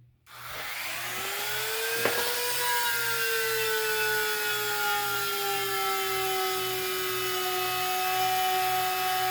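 Electric drill spinning up and boring a hole through a small piece of wood: its whine rises over the first couple of seconds, then holds steady and sags slowly in pitch as the bit cuts under load.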